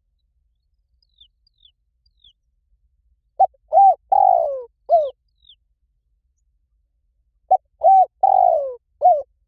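Spotted dove cooing: two phrases of four coos about four seconds apart, the third coo in each the longest and falling in pitch. A small bird gives faint high chirps between them.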